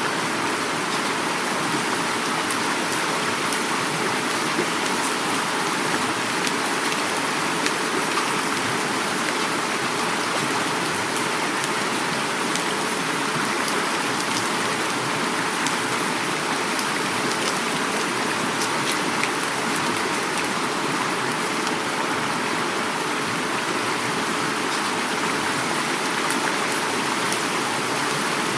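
Heavy rain falling steadily, with the individual drops ticking, over the constant rush of a flowing river.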